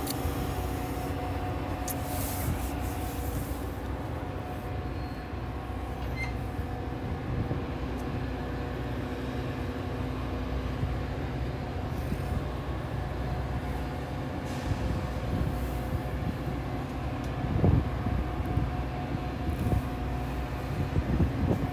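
A train running with a steady low rumble and a steady hum, with a few low knocks about three-quarters of the way through and again near the end.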